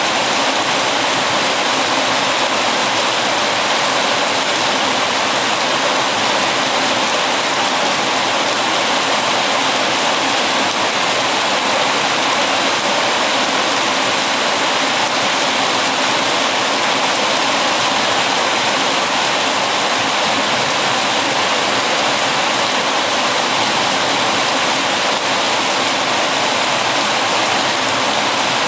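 Heavy rain falling steadily: an even, unbroken hiss with no let-up.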